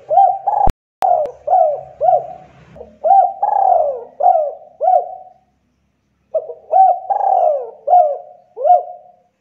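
Spotted dove cooing: a run of short, hooked coo notes in two phrases with a pause of about a second between them. Two sharp clicks come near the start.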